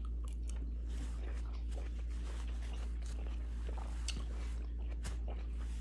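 A person chewing a mouthful of fruit: faint soft mouth sounds and a few small clicks, over a steady low hum.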